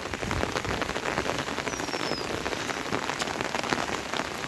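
Steady rain, with many individual drops ticking on a hard surface close by.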